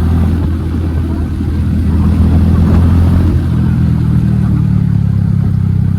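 Royal Enfield Hunter 350's single-cylinder engine running under way through an aftermarket HK exhaust with the dB killer removed, a deep, steady exhaust note. It gets louder about two seconds in, then eases off.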